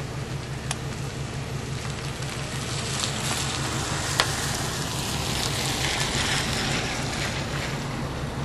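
Vehicle engine running with a steady low hum under a hiss that swells through the middle, and a sharp click about four seconds in.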